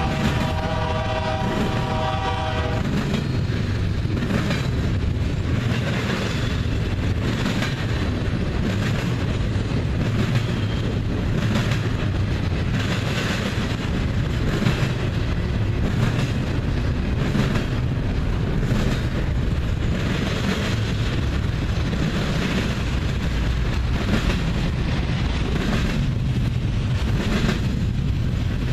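Locomotive horn sounding, cutting off about three seconds in, then a double-stack container train rolling past: a steady rumble of wheels with repeated clacks.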